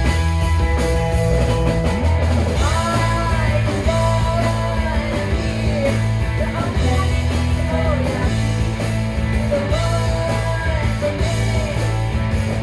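A rock band playing live: guitars over sustained bass notes, with a melodic lead line that bends and slides in pitch from about two seconds in.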